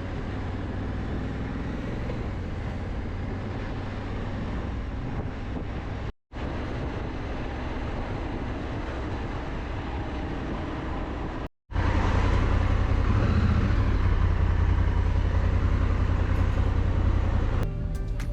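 Motorcycle riding noise from a Honda Africa Twin on the road: a steady rumble of engine, tyres and wind. It comes in three stretches split by two sudden cuts, and the last stretch is louder and deeper.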